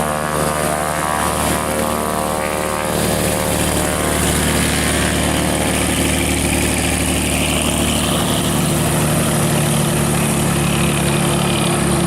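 Propeller aircraft engine running, a loud, steady drone whose tone shifts about three seconds in.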